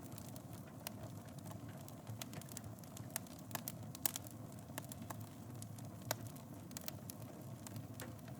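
Wood fire burning in a fireplace: a steady low rumble of flames with frequent sharp crackles and pops, the loudest about four seconds in.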